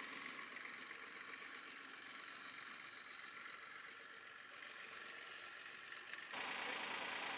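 Tractor engine running steadily at a moderate distance. About six seconds in the sound cuts abruptly to a louder, closer engine.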